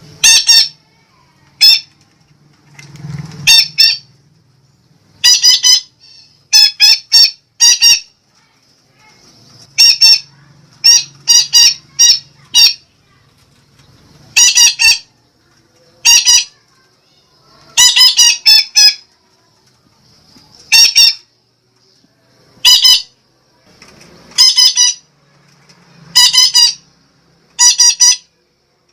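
Sumatran betet parakeet giving loud, harsh squawking calls, mostly in quick runs of two to four notes, repeated every second or two.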